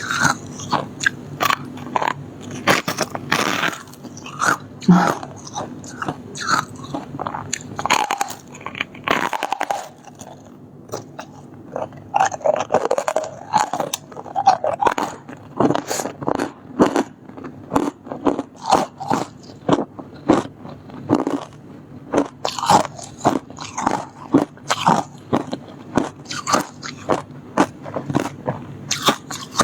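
Close-miked biting and chewing of soft shaved freezer-frost ice: many crisp crunches, one or two a second, with a short pause about ten seconds in.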